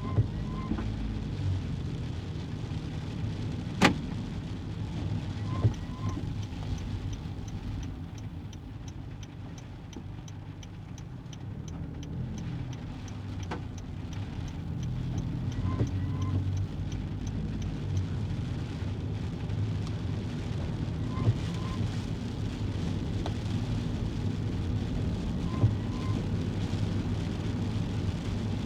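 Interior noise of a kei car driving: a steady low engine and road rumble, with a sharp click about four seconds in and a few lighter knocks. A faint paired squeak comes back every few seconds.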